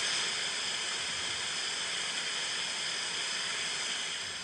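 Sound effect of a waterfall: steady rushing water, starting to fade out near the end.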